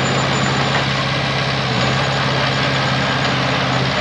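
Heavy diesel engine of earthmoving equipment running steadily at an even speed, with a constant low hum.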